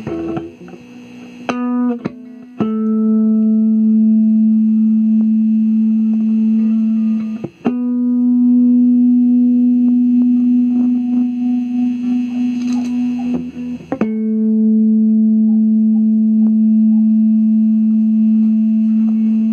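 Electric guitar played through a compressor pedal: a few quick plucked notes, then single notes held with long, even sustain for several seconds each, picked again about a third of the way in and again about two-thirds of the way in.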